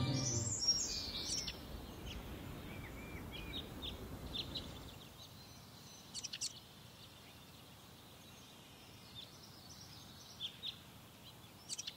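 Small birds chirping in short, scattered calls over faint outdoor background noise. The background noise thins out about halfway through.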